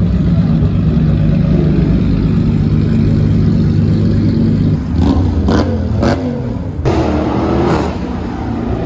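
Car engine running with a steady low note, then revving: a few sharp cracks about five seconds in, followed by a rise and fall in pitch.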